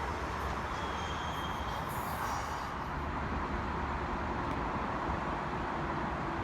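A train running through the station, a steady rumble of wheels on rail with faint high squeals in the first two or three seconds.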